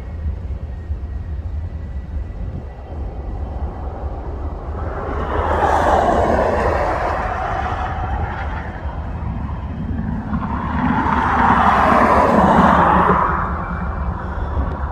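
Cessna Citation Ultra business jet's twin turbofan engines during landing: a rushing jet roar that swells twice, over a steady low rumble.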